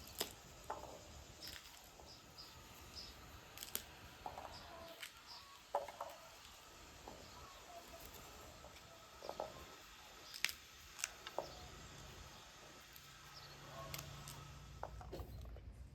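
Scattered small, sharp clicks and snaps from close handwork, with birds chirping now and then in the background.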